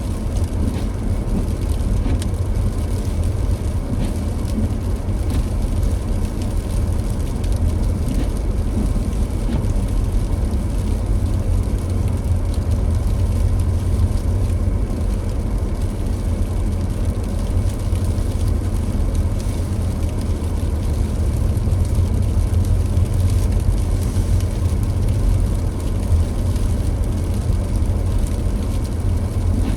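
A car driving steadily: a constant low rumble of engine and tyres on a snowy road, with an even hiss of road noise over it.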